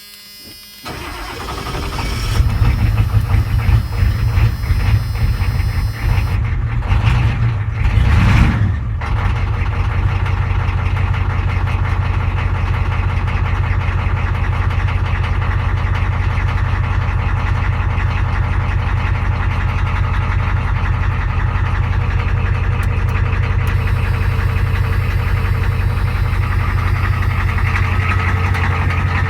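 1984 Ford F-250's 6.9 L IDI V8 diesel starting cold on a shot of ether, since its glow plugs have failed. It catches about a second or two in and runs unevenly, with a brief rev-up about eight seconds in, then settles into a steady idle.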